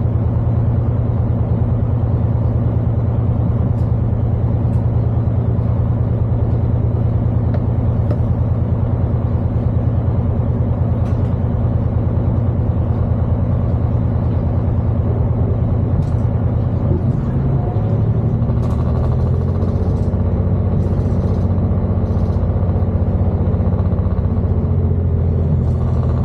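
Class 221 Super Voyager's underfloor diesel engine running with a steady low drone; about seventeen seconds in its note drops to a lower pitch. A few faint clicks sound over it in the second half.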